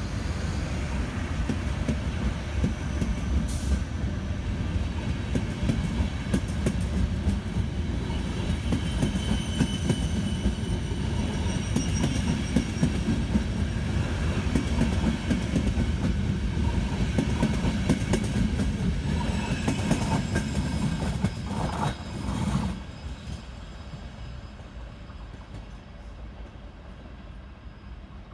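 A train passing at speed: a steady rumble of wheels on the rails with many sharp clicks over rail joints and points and faint high wheel squeal, dropping away suddenly near the end as the train clears.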